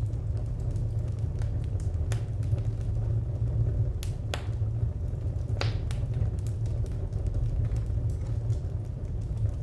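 Wood fire crackling over a steady low rumble, with scattered sharp pops and a few louder snaps around the middle.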